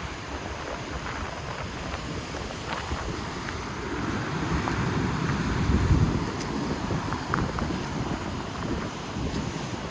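Wind buffeting the microphone over the sound of surf, with a steady low rumble that swells to its loudest about six seconds in.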